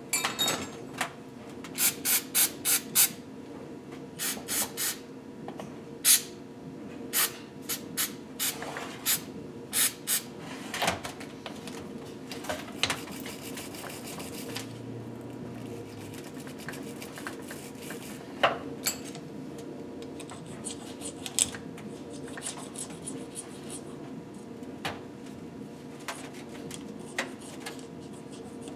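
Hand-cleaning a piston with a metal pick: sharp clicks and light scraping of the pick against the metal, close together in the first ten seconds or so and more spread out later, over a steady hum.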